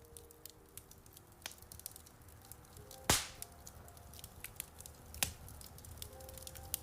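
Wood fire crackling in a fireplace: scattered small crackles, with a loud pop about three seconds in and another sharp pop about five seconds in. Soft piano notes play underneath.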